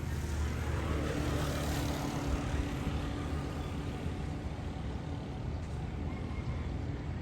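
A passing train: a steady low rumble with a held engine hum, and a hiss that swells about two seconds in.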